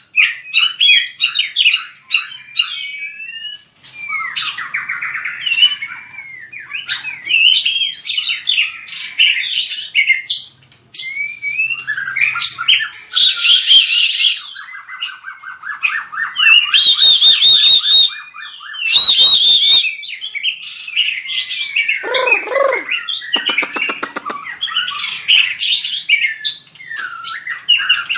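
White-rumped shama singing a long, varied song of clear whistled phrases and fast trills, broken by a rapid buzzing trill and harsh rasping notes midway and a lower falling note near the end.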